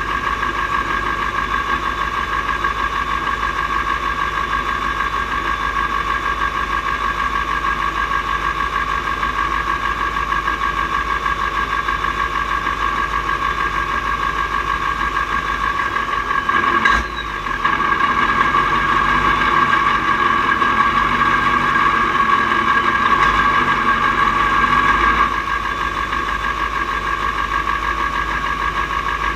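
Mack R-series truck's V8 diesel engine running steadily under way. About two-thirds of the way through, the engine note breaks off briefly. It then comes back louder for several seconds before settling to its earlier level.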